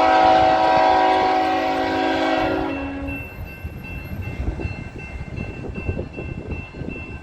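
Freight locomotive air horn sounding one long chord of about three seconds, cut off about three seconds in, followed by the steady rumble of the passing train.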